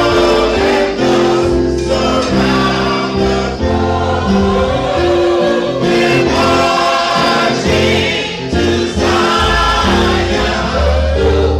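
Choir singing gospel music, sustained chords changing every second or two over a steady bass accompaniment.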